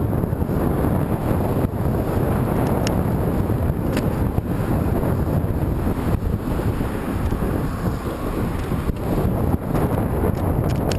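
Strong wind buffeting the camera's microphone, a steady low rumbling rush, as the rider heads into a headwind.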